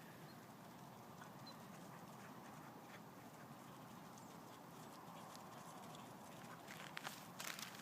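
Near silence with a faint steady outdoor background. Near the end come several short rustling sounds.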